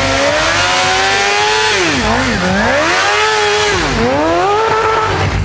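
Suzuki GSX-R750 inline-four sport-bike engine revving hard during stunt riding: its pitch climbs, drops sharply twice about two seconds in, climbs again, then dips about four seconds in before rising once more.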